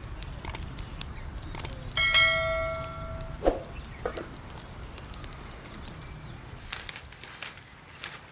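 A single metallic ring, like a small bell struck once, about two seconds in, fading over about a second and a half, among scattered light clicks.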